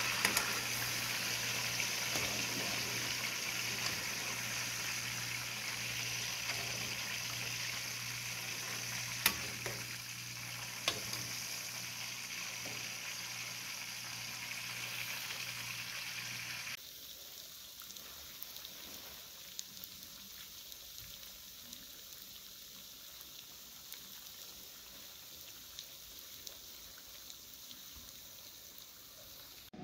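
Dough dumplings (duff) sizzling as they deep-fry in a pan of hot oil, with a few sharp pops. The sizzle drops abruptly to a quieter level about seventeen seconds in, when the dumplings are golden brown.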